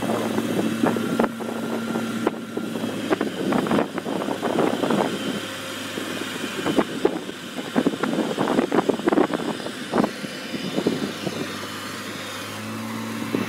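Heavy machine's engine running steadily, with many irregular clanks and rattles of metal over it that thin out near the end.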